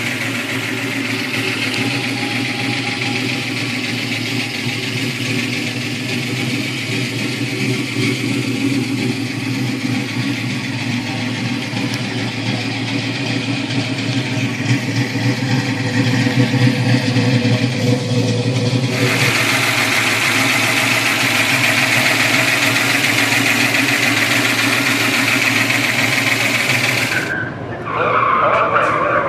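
Classic muscle car's V8 engine running steadily, a little louder past the middle, with a short dip in sound near the end.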